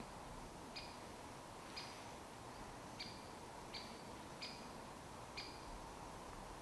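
A small bird gives a short, sharp call over and over, about once a second, six times, faint against a quiet woodland hiss.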